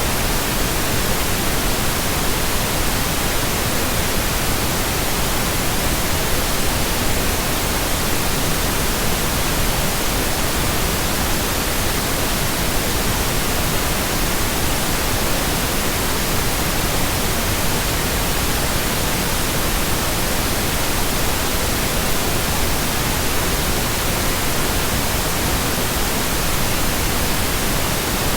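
Steady, electronically generated pink noise: an even, unbroken hiss spread across the whole range of pitch, with no change in level.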